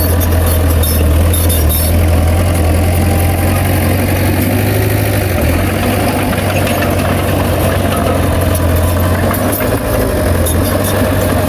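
Heavy diesel engine of earthmoving machinery running steadily, a strong low drone with light metallic clicking over it.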